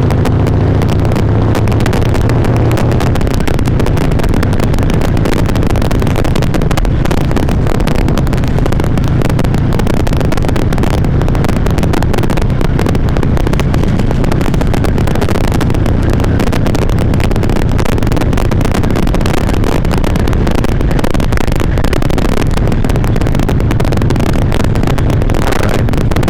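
Harley-Davidson V-twin motorcycle engine running under light power while riding, heard through a helmet chin microphone, loud and steady with some wind noise. The rider suspects the loud engine sound is clipping the recording.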